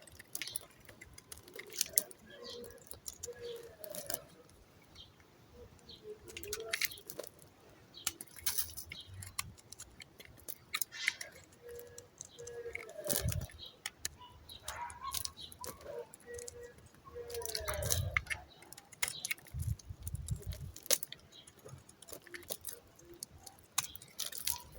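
Knife cutting through dry soap: irregular crisp clicks and crackles as the blade breaks through.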